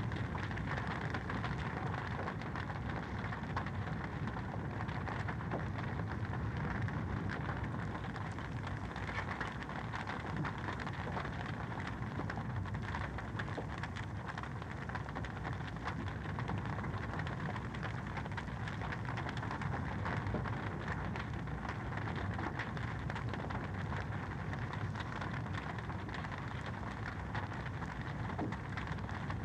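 Fireplace fire crackling steadily, a dense run of small pops and snaps over a low rush.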